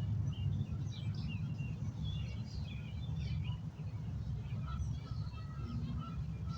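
Steady low wind noise on the microphone, with birds chirping in many short, quick calls.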